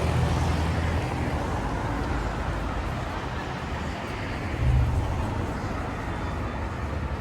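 Low engine hum of a passing vehicle fading away in the first second, then a short low rumble again about four and a half seconds in, over steady city street noise.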